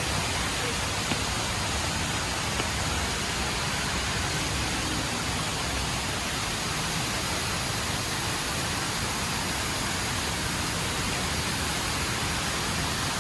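The HSBC Rain Vortex indoor waterfall: a steady rush of water pouring down into its pool.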